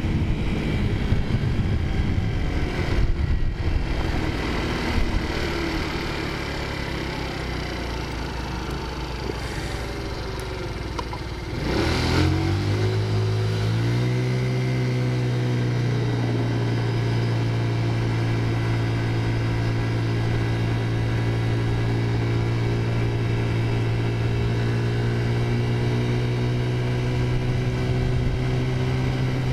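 Taotao 50cc four-stroke scooter engine under way: uneven and a little quieter for the first ten seconds or so, then about twelve seconds in it revs up quickly and settles into a steady drone at cruising speed.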